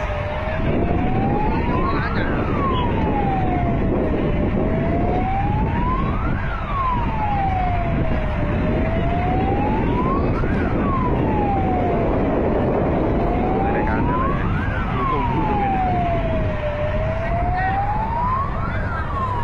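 Emergency vehicle siren on a slow wail, its pitch rising and falling about every four seconds, over a loud steady rumble of background noise.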